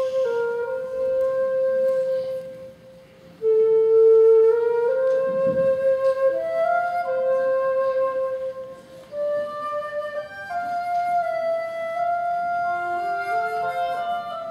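Solo flute playing a slow, simple melody in phrases, with short breaks about three seconds in and about nine seconds in. A second, lower line of rising notes joins in the last few seconds.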